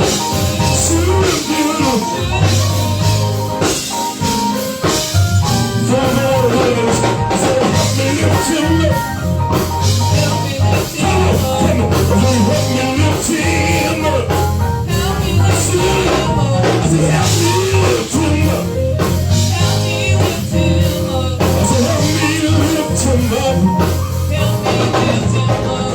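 Live gospel praise music from a church band, with drums, bass and guitar playing steadily and a singer's voice at times.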